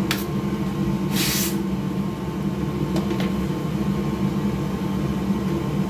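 Steady low mechanical hum, with a few small clicks and a brief hiss about a second in.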